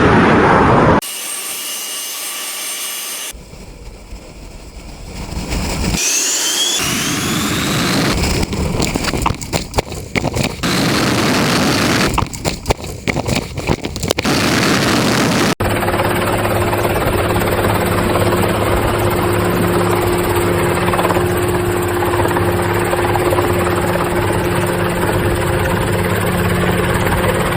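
Aircraft engine noise in several short clips cut one after another, with a few rising whines about six seconds in. From about fifteen seconds on, a steady engine drone with a constant hum.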